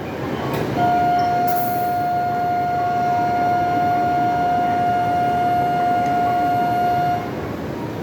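Door-closing warning buzzer at a Shinkansen departure: one steady electronic tone, held about six seconds and then cut off, over the hum of the platform.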